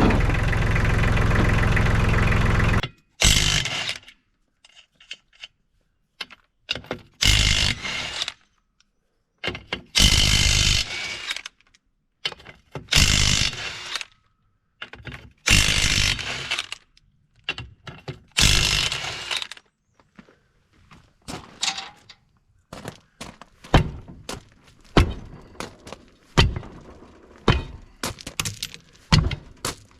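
An engine runs steadily and cuts off abruptly about three seconds in. A series of short, separate bursts of rattling, mechanical tool noise follows, and near the end a quick run of many sharp knocks.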